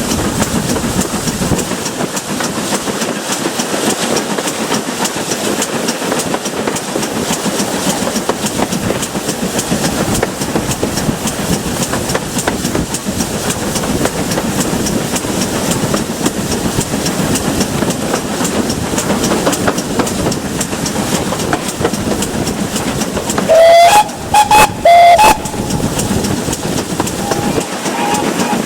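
Steam train running steadily with rail clatter, GWR Manor-class 4-6-0 steam locomotive. Near the end its whistle gives about three short, loud blasts, the first sliding up slightly in pitch.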